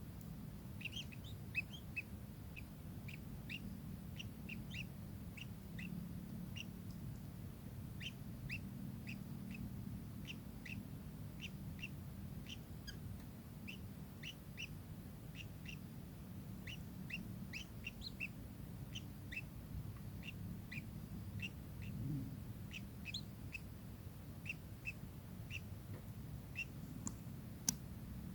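Kingfisher giving short, sharp calls over and over, about one or two a second, over a low steady rumble. A few faint clicks near the start and near the end.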